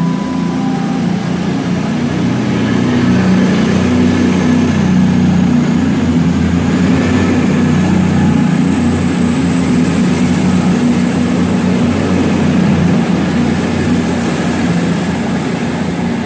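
Diesel train engine running loud and steady close by, with a low engine note and a high whine that rises a little about halfway through. A brief falling two-note tone sounds at the very start.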